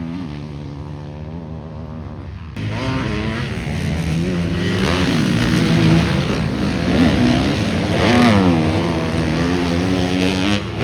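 Motocross bikes on the track, their engines revving up and down as riders work through the gears. About two and a half seconds in the sound changes suddenly and grows louder, with several bikes revving at once.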